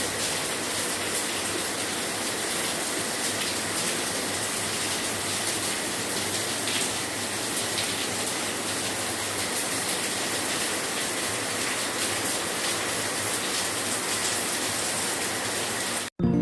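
Heavy rain of a tropical rainstorm falling steadily, an even rushing hiss; it cuts off suddenly near the end.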